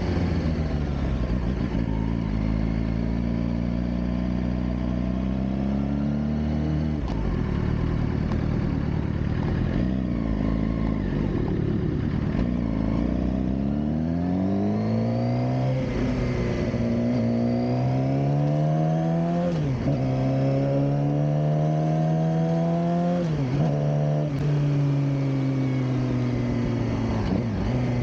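Suzuki GSX-R600 K7's inline-four engine running under a rider: steady at first, dipping about a quarter of the way in, then climbing in pitch over several seconds. In the last third the revs rise, drop sharply and climb back twice, a few seconds apart.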